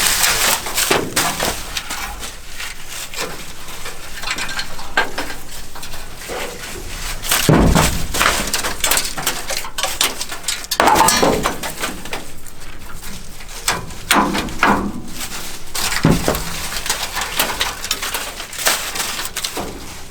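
Irregular clanking and rattling of the combine's sheet-metal straw-walker parts being handled and knocked about, with a few louder knocks.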